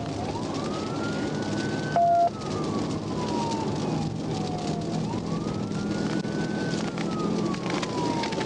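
Police siren on a slow wail, rising and then falling, repeating about every five seconds over engine and road noise inside a patrol car during a pursuit. About two seconds in there is a short, loud beep.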